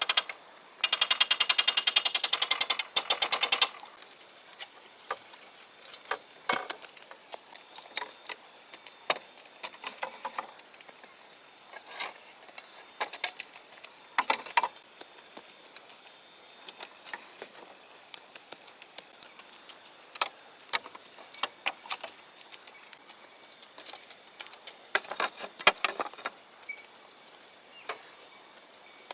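A fast mechanical rattle of rapid clicks lasting about three seconds near the start, followed by scattered light knocks and clicks.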